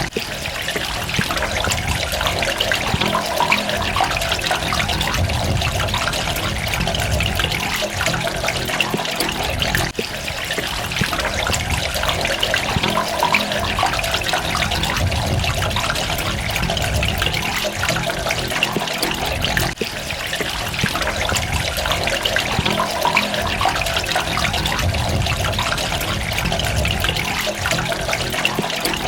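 Running water trickling and splashing steadily, with a brief dip in level about every ten seconds.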